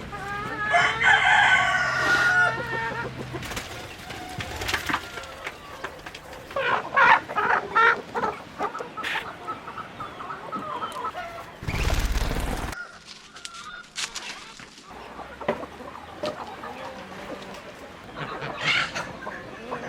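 Chickens clucking, with a rooster crowing once about a second in. A brief loud burst of noise comes about halfway through.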